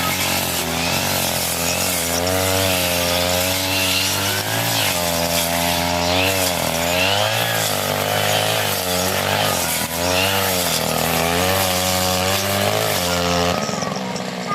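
40cc two-stroke brush cutter engine running at high speed, its pitch dipping and recovering again and again as the blade cuts through thick grass. About a second before the end the engine drops back to a lower, steadier speed.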